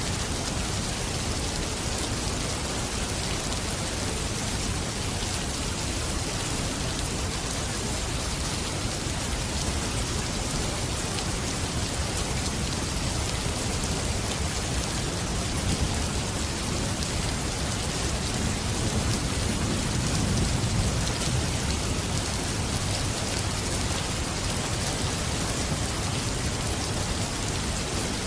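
Steady rain falling in a dense, even hiss, with a low rumble of thunder swelling up about two-thirds of the way through.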